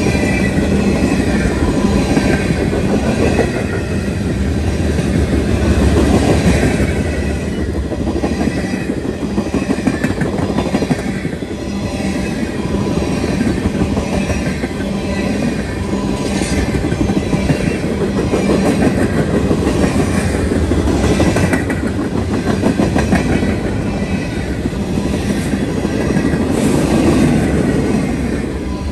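Mixed freight train of boxcars, covered hoppers and tank cars rolling past close by, with a steady rumble of wheels and clatter over the rail joints.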